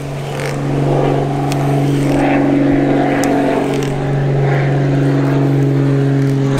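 An engine running steadily at idle: a low, even hum of constant pitch that grows louder about a second in, with a few faint clicks over it.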